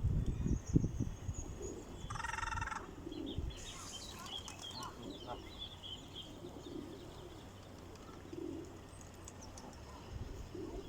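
Birds calling: a low soft call repeating every couple of seconds, a run of quick high chirps in the middle, and one short higher call about two seconds in. A low rumble is loudest at the start.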